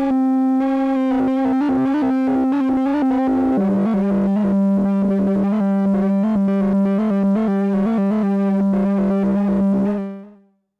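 Arturia MicroFreak synthesizer playing its Noise Engineering HARM oscillator, with the LFO sweeping the harmonic spread so the overtones flicker in a fast, even rhythm over a held note. The note steps down in pitch about a third of the way in, and the sound stops just before the end.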